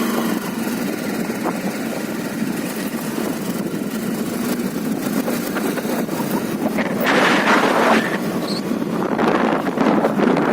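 Motorcycle engine running on the move, with wind rushing over the microphone; the wind comes in stronger gusts about seven seconds in and again near the end.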